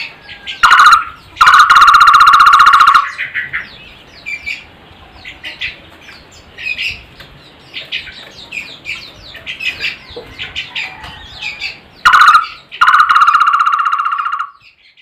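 A takur (barbet) calling loudly twice: each time a short burst and then a fast, even trill of about a second and a half, the first near the start and the second about twelve seconds in. Between the calls, smaller birds chirp quickly at a higher pitch.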